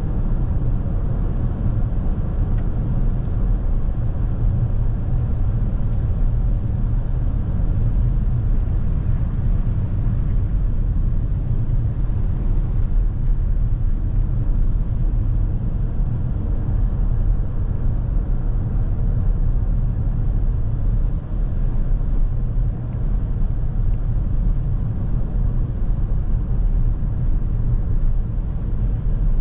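2023 Lexus NX350h hybrid SUV driving along, a steady low rumble of road and tyre noise with no marked change in pitch or level.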